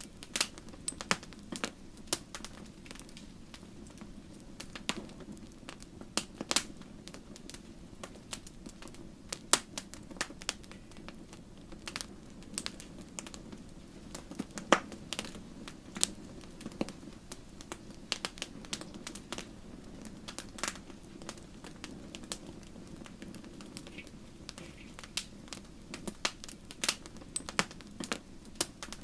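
Wood fire in a fireplace crackling, with irregular sharp pops and snaps from the burning logs over a steady low rush of the flames.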